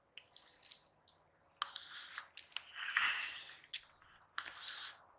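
Faint, irregular squishing and rustling with scattered clicks: wet pond grass being handled and pulled off a fishing lure. A longer rustle comes about three seconds in.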